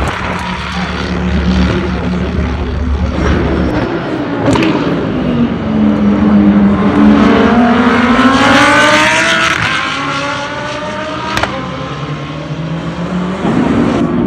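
Lamborghini Huracán GT3 EVO race car's naturally aspirated V10 running, its note climbing steeply in pitch as it accelerates and loudest about eight to nine seconds in, then easing back to a steadier tone. Two sharp cracks stand out, one about four and a half seconds in and one about eleven seconds in.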